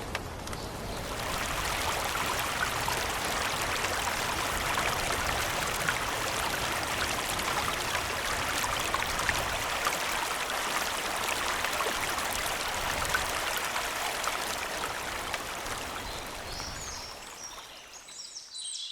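Water running in a steady gushing stream, starting up about a second in and fading away near the end.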